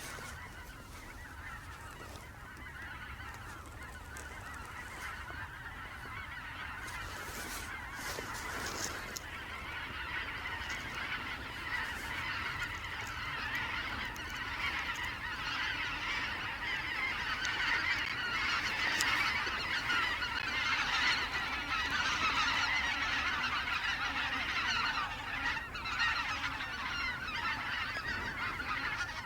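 A large flock of snow geese calling, a constant chorus of many overlapping honks that grows steadily louder as the flock comes closer.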